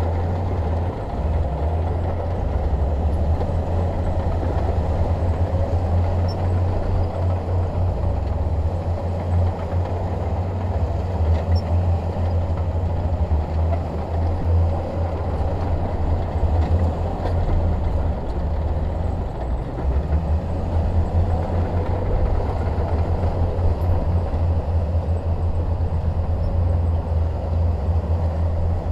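Shantui DH17 bulldozer's diesel engine running steadily at working speed, with a deep, continuous drone.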